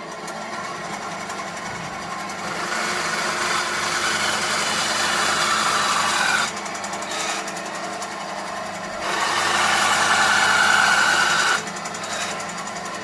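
Wipro JDD200 mini band saw with its 350-watt motor running, growing louder twice for a few seconds each and dropping back in between.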